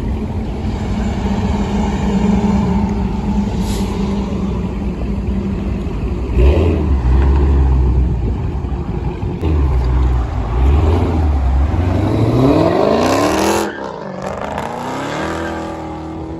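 Dodge Hellcat's supercharged 6.2-litre Hemi V8 with its resonators cut out, running and being revved: a heavy low rumble from about six seconds in, then a rising supercharger whine around twelve seconds that drops off sharply a second and a half later as the throttle is let off.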